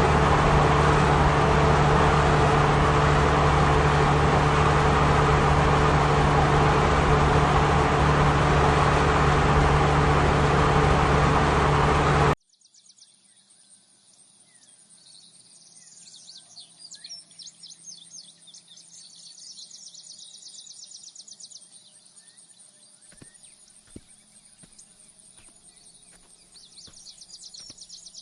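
A vehicle driving: steady engine and road noise with a low hum. It cuts off abruptly about twelve seconds in, giving way to faint birdsong with high insect chirring and a few light clicks.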